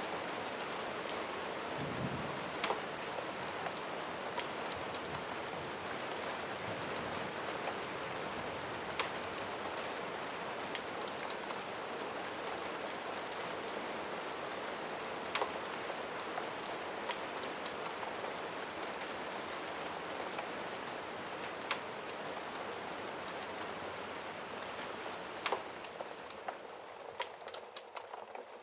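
Steady rain falling on a surface, with scattered sharp ticks. The rain thins out and grows quieter near the end.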